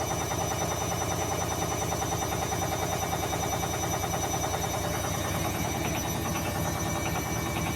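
Beko washing machine spinning with an unbalanced load: the drum knocks in a rapid, steady rhythm and the whole machine shakes. Very loud.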